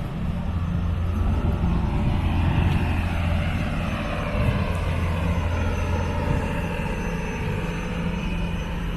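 Small passenger ferry's engine running with a steady low drone.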